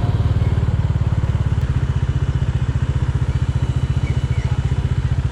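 Bajaj Dominar 400 motorcycle's single-cylinder engine idling with an even, rapid beat.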